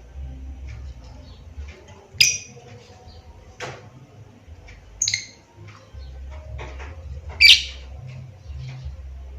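Lovebird calling: three loud, shrill, piercing calls stand out, the loudest near the end, among fainter quick chirps and twitters.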